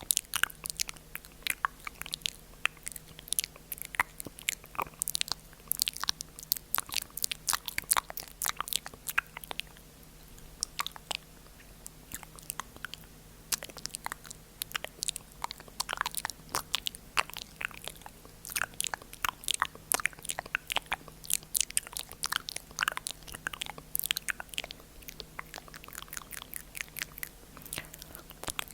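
ASMR mouth sounds close to the microphone: a dense, irregular run of mouth clicks and smacks, with a few brief lulls. A faint steady low hum sits underneath.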